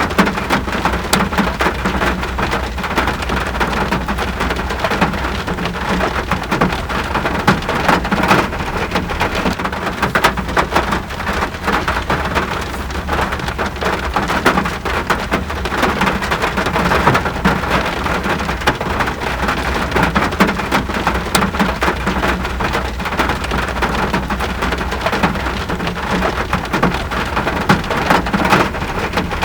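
Steady rain falling, a dense patter of countless drops striking surfaces.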